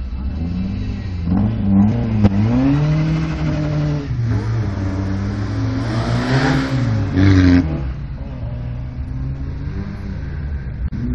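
Rally car engine accelerating hard away from a standing start, the revs climbing and dropping several times through the gear changes as it pulls away. Near the end, a steadier engine runs at lower revs.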